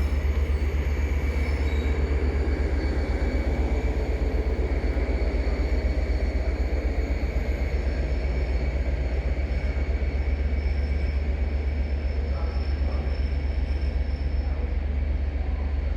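A train running with a steady low rumble and a faint, steady high whine, unchanged throughout.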